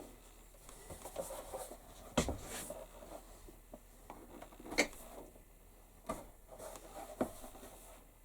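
Handling noise from leather work on a bench: soft rubbing and a few scattered light taps and clicks, the sharpest about five seconds in.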